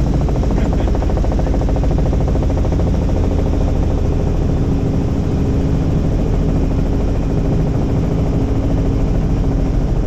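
Helicopter in flight: the rotor chop and engine run steadily and evenly as a fast, continuous beat over a steady low hum.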